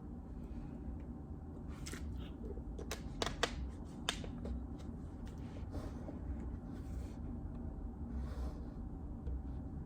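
A few scattered keystrokes on a JJK84 mechanical keyboard with Outemu Silent Peach linear switches, bunched together about two to four seconds in, with a soft rustle or two between them and a steady low hum underneath.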